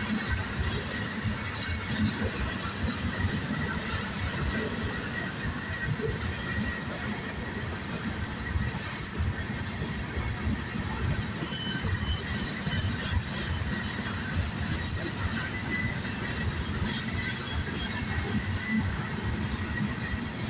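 Norfolk Southern freight train rolling past: a steady rumble of railcars with continual wheel clatter over the rail joints and a faint, steady high wheel squeal.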